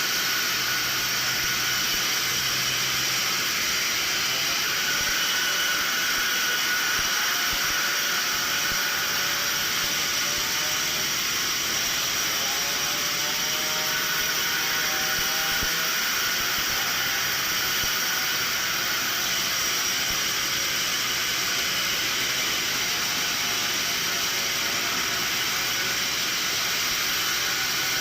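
Sawmill machinery running steadily with a constant whine, with faint wavering tones in the middle stretch.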